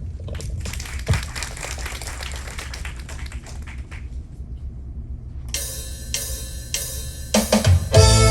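Live synthesizer music starting up: a wash of cymbal-like taps for the first few seconds, a short lull, then keyboard chords struck in a steady repeat, with a heavy bass line coming in near the end.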